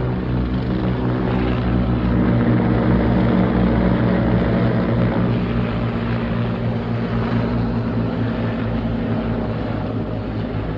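Several helicopters passing overhead: a steady rotor and engine sound that is loudest a few seconds in and eases slightly toward the end.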